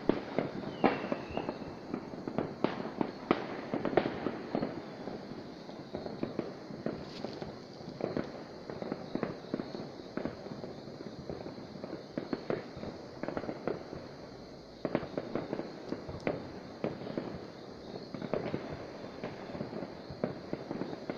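Fireworks going off: many bangs and pops of varying loudness at irregular intervals, overlapping into a continuous crackle.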